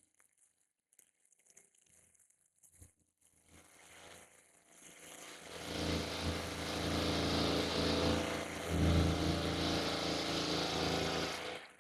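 Bush cutter engine running steadily, building up about five seconds in and cutting off suddenly near the end; before it, only faint scattered sounds.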